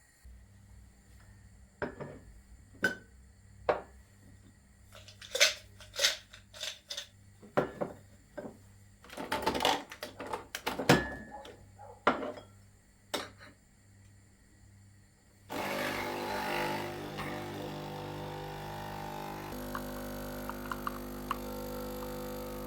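Dishes and utensils clinking and knocking, a run of sharp clicks over about ten seconds. About fifteen seconds in, a steady hiss with a low hum starts suddenly and runs on.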